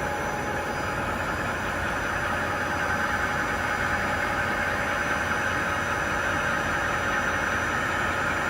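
Hwacheon T130 CNC lathe running steadily, with an even mechanical hum and a few held whining tones; a higher band of noise grows slightly stronger about two seconds in.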